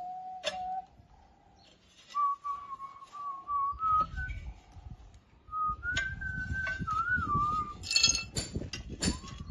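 A person whistling a short tune, two phrases of held and sliding notes, followed near the end by several sharp clinks.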